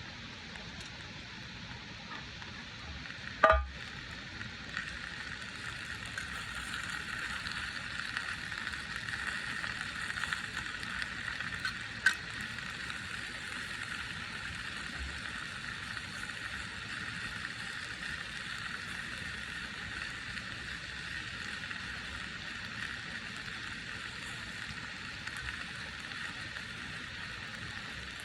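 Food sizzling steadily in a hot pan, growing a little about five seconds in, after one sharp knock.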